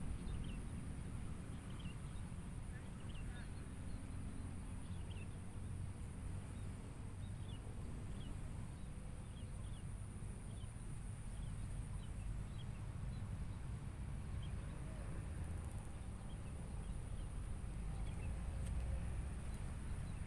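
Outdoor lakeside ambience: a steady low rumble with a small bird chirping faintly and repeatedly, about once a second, over a steady high thin whine.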